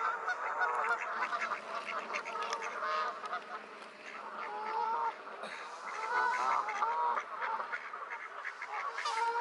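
A flock of birds calling at once: many short, overlapping calls without a break.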